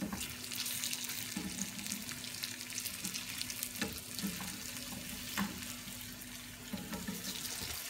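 Grated-potato cutlets sizzling in shallow oil in a nonstick frying pan, with a few short clicks of a slotted spatula against the pan as they are turned over.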